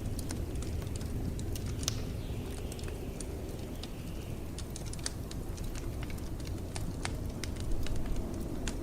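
Wood fire crackling with frequent sharp pops and snaps over a steady low rumble of blizzard wind.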